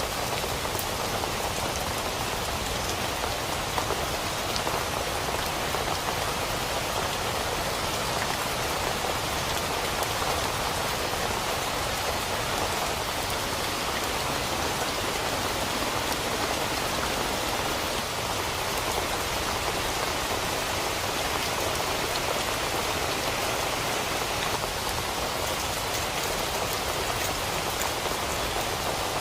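Steady rain hitting a tent, with scattered sharper drop hits through the even hiss.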